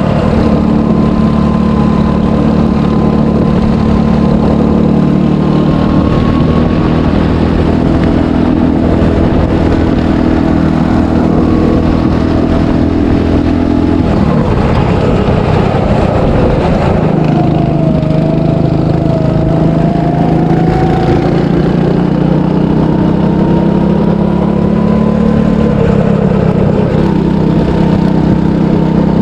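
300cc go-kart engine running hard on track. Its note holds steady, falls away and breaks up about halfway through, then climbs slowly again as the kart picks up speed.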